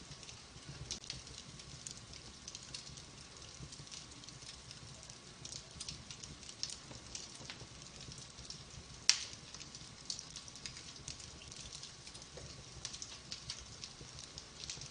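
Wood fire burning in a fireplace: logs crackling with frequent small pops and one sharp, loud pop about nine seconds in, over a soft hiss.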